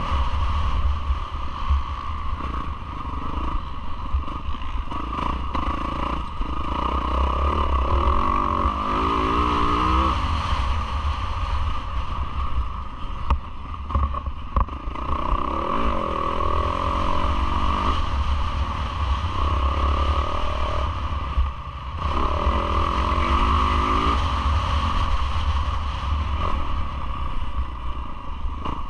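Yamaha YZ450F four-stroke single-cylinder motocross engine racing over a track, revving up and down with rising sweeps in pitch as it accelerates, briefly dropping off twice, over heavy wind and rattle on the onboard action camera.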